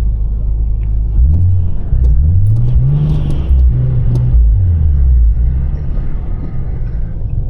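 Car engine accelerating over a steady low drone: its note climbs in pitch in several successive pulls between about one and five seconds in, then settles back to the steady drone.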